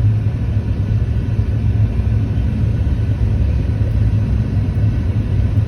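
Car engine and road rumble heard from inside the cabin while driving: a steady low drone.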